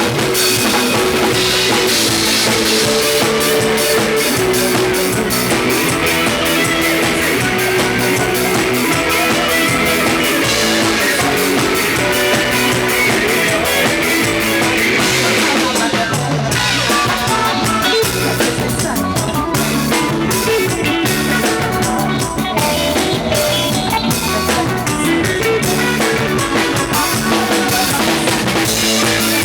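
Isan band music played on electric guitar, bass guitar and drum kit, a steady, driving beat with guitar lines over the bass.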